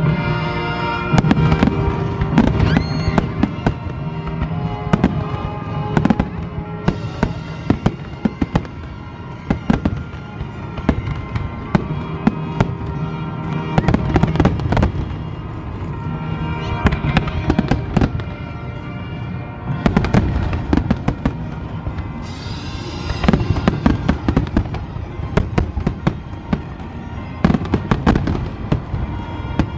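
Fireworks display bursting: many sharp bangs and crackles, some in quick clusters, over music with long held tones.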